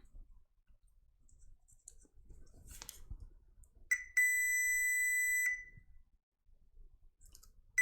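Digital multimeter's continuity beeper giving one steady high beep for about a second and a half, about four seconds in, and starting again at the very end: the probes are across a short in the power supply. Faint clicks of the probes before it.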